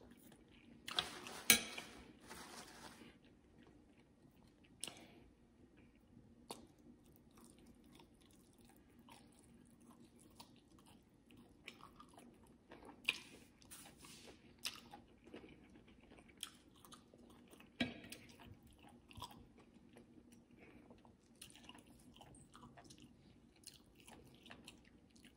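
A person chewing food close to the microphone, faint, with many small wet mouth clicks. A few louder bites stand out about a second and a half in, and again around 13 and 18 seconds.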